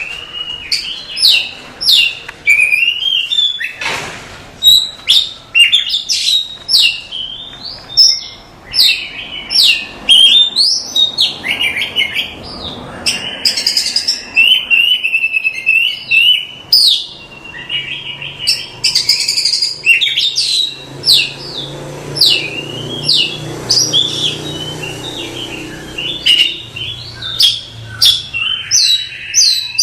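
Oriental magpie-robin (kacer) singing a continuous, varied song of rapid whistles, sharp chirps and sweeping notes.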